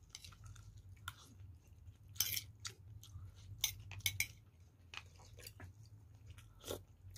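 A person chewing food close to the microphone: irregular short chewing and mouth noises, with a spoon on a bowl now and then, over a low steady hum.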